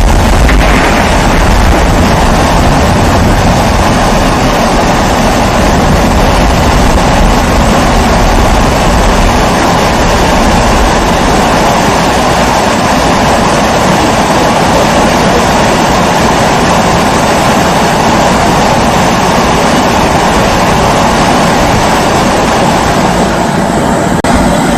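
Pressurised kerosene stove (Primus-type burner) burning with a steady hum; the low rumble under it eases off about halfway through.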